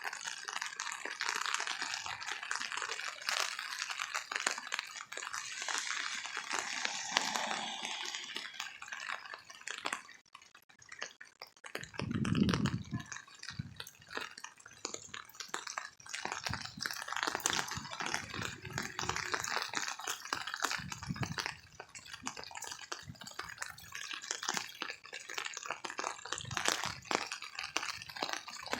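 Heavy rain falling steadily, with the hiss of the downpour dotted with many individual drops and drips striking. It eases off briefly, then a short low rumble comes about twelve seconds in.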